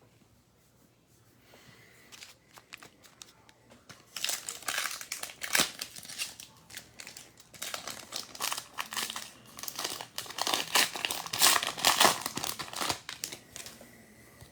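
Wrapper of a 2022 Topps Heritage baseball card pack being torn open and crinkled by hand. It is faint for about four seconds, then crinkles densely for most of the rest.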